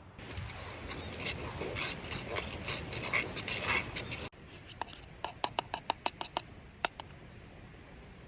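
Close-miked wood campfire crackling: a dense, rasping run of crackles for about four seconds, then after an abrupt cut a quieter fire with a quick series of sharp separate pops.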